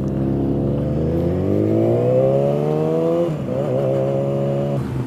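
Sport motorcycle engine accelerating: the pitch climbs steadily for about three seconds, drops sharply at an upshift, then climbs again and levels off.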